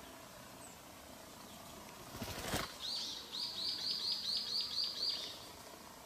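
A bird chirping: a quick run of about nine high, arching notes, around four a second, lasting some two and a half seconds. It comes just after a brief rustling burst.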